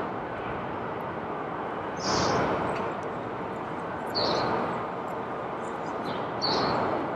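Steady outdoor background noise, a rushing sound that swells louder three times, with short high chirps over it.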